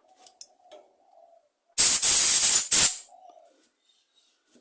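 Aerosol carburettor cleaner sprayed hard into a carburettor jet passage: one loud hiss of about a second, then a second short burst.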